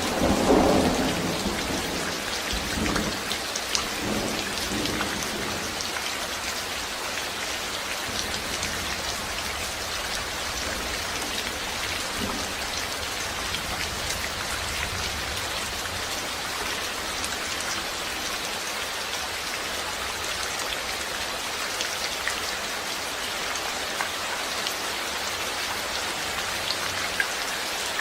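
Steady rain falling on a hard surface, an even hiss, with a low roll of thunder in the first few seconds that dies away.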